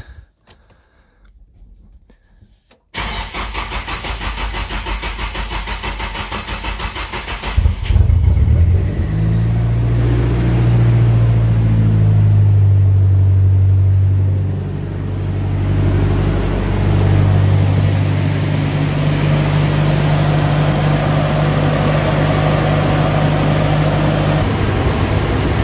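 Nissan Silvia S15's SR20DET turbocharged four-cylinder engine being started: a few seconds in, the starter cranks it with a rhythmic pulse for about five seconds, then it catches, flares up and settles into a steady idle. This is its first start on freshly gapped spark plugs and newly fitted Audi R8 coil packs.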